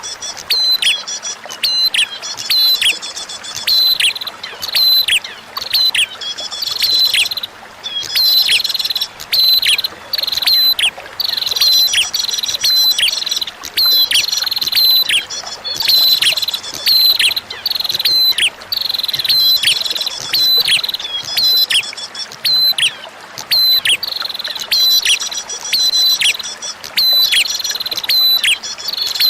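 Prinia (prenjak) song: sharp chirps repeated rapidly, about twice a second, each a quick downward-sweeping note with a short high tone, with a brief pause about seven seconds in. Beneath it is a faint background of running water.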